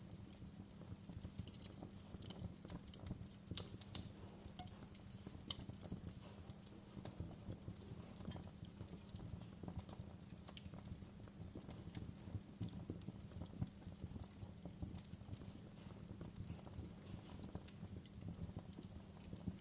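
Fireplace fire crackling: a steady low rumble of flames under frequent irregular sharp pops and snaps, the loudest about four seconds in.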